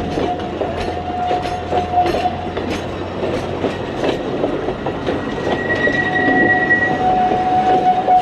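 Alishan Forest Railway train running, its wheels clacking over the rail joints. A high, steady wheel squeal comes in twice: briefly near the start, then again from about halfway to the end, where a second, higher squeal joins it for a while.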